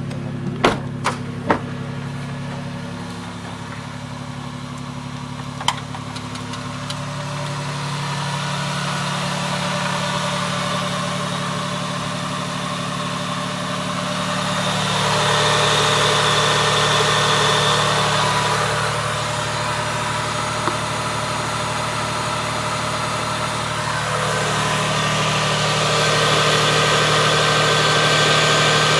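Toyota 1MZ 3.0-litre V6 engine idling steadily. There are three sharp clicks in the first two seconds, and the sound gets louder and noisier from about halfway through.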